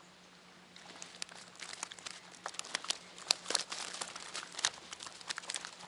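Plastic bag crinkling and rustling in quick irregular crackles as it is handled and filled, starting about a second in.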